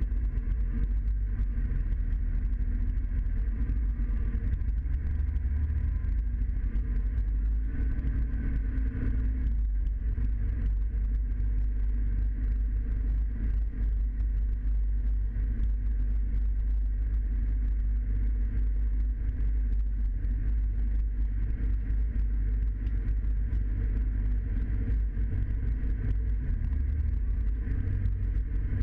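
Scania truck's diesel engine running steadily, a deep continuous rumble.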